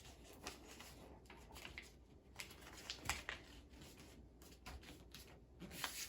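A sheet of paper being handled and folded by hand: faint, scattered rustles and crinkles.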